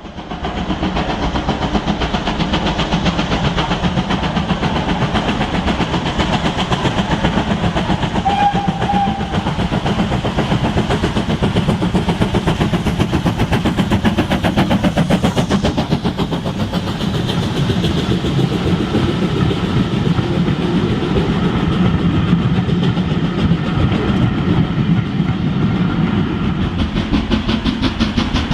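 Steam train running, a fast, steady rhythmic clatter that does not let up.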